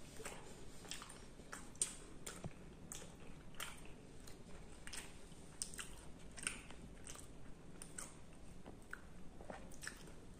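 Close-up eating sounds: a person chewing puri dipped in sweet curd, with a steady run of soft, wet mouth clicks and smacks, a few a second.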